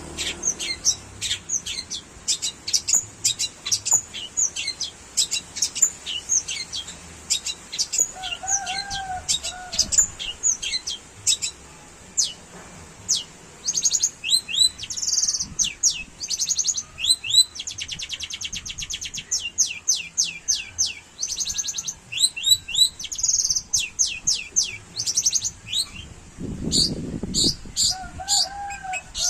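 Long-tailed shrike (cendet) singing hard: a rapid run of sharp, high chirps broken by fast buzzing trills, including the canary-like bursts it has learned to mimic.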